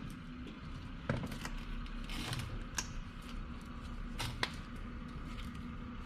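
A few sharp clicks and knocks of hand tools and metal parts being handled while a sway bar bushing and bracket are fitted, spaced a second or more apart, over a steady low hum.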